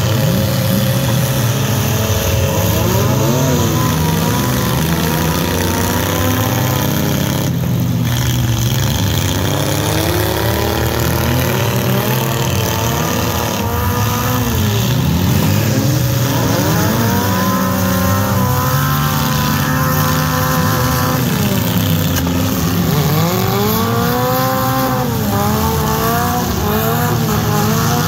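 Several demolition-derby mini trucks and SUVs with their engines revving up and down over one another, loud and continuous, as they push and ram in the mud.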